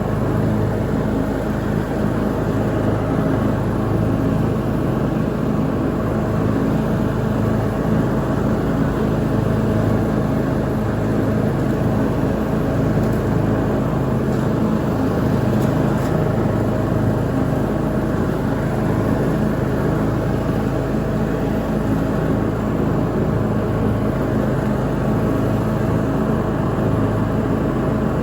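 Lawn mower engine running steadily while mowing, an even drone that does not change.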